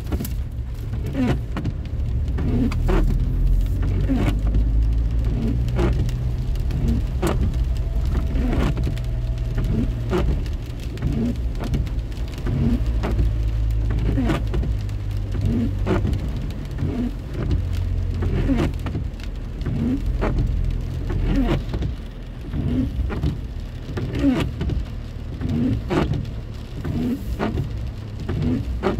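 Rain drops tapping irregularly on a car over the steady low rumble of the car.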